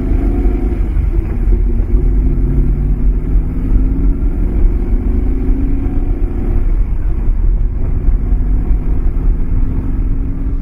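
Maserati Mexico V8 engine running under way, a steady deep rumble whose pitch wavers slightly without big rises or falls.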